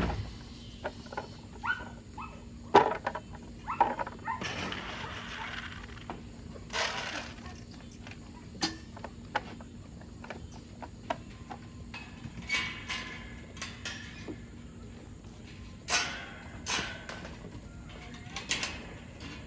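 Dogs being fed: scattered knocks and clatters with several short rustling, pouring-like bursts, and some dog sounds among them.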